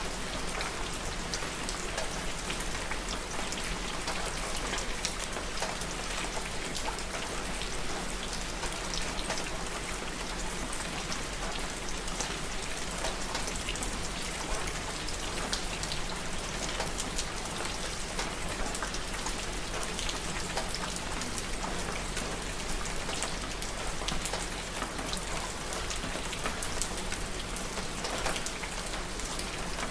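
Steady rain falling on a surface, a dense, even patter of many drops.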